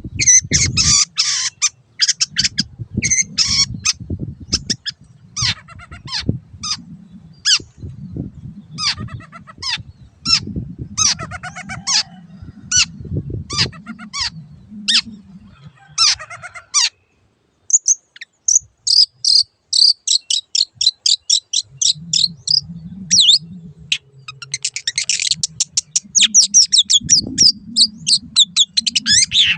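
Long-tailed shrike singing: a busy string of short, sharp notes and chatters, with a fast trilled run about two-thirds of the way through and another near the end. A low rumble sits underneath and drops out in the middle.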